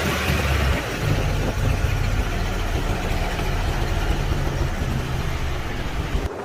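An engine running steadily at idle, cut off abruptly near the end.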